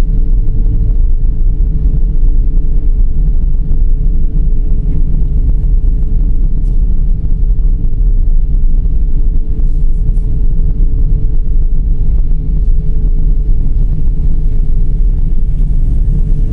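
Dodge Charger 3.5 driving: a steady, loud low rumble of engine and road noise with a constant hum running under it.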